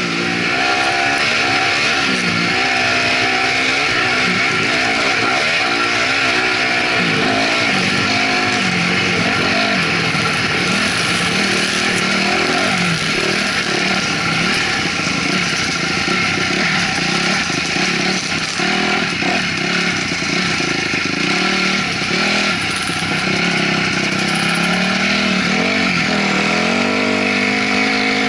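2008 Honda CRF250R's single-cylinder four-stroke engine running under way, its pitch rising and falling again and again as the throttle is worked on and off.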